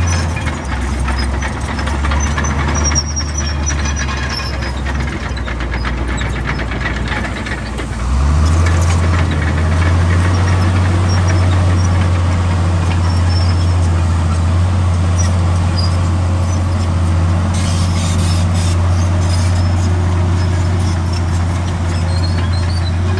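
Heavy diesel engine of earthmoving machinery running steadily; about eight seconds in it revs up and stays louder, as under load.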